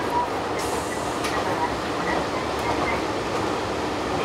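Steady running noise of a Hojo Railway diesel railcar heard from inside the car, with a few faint clicks and brief high wheel squeals as it takes a sharp right-hand curve.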